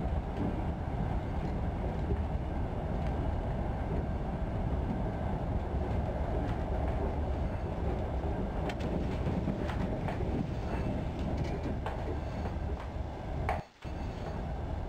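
Steady rumble of a railway carriage in motion, heard from inside the compartment, with faint scattered clicks and rattles. The sound drops out for a moment near the end.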